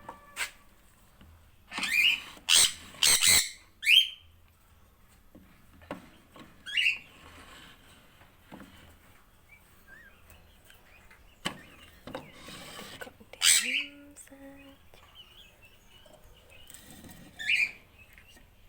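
A parrot giving a series of short, harsh squawks, several sweeping upward in pitch, with quiet gaps between bursts.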